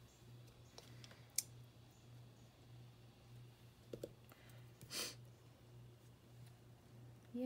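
Quiet handling of paper and craft pieces at a table: scattered soft clicks and taps, one sharp click about a second and a half in and a quick double tick near the middle, over a low steady electrical hum. A short breath about five seconds in, and a voice begins right at the end.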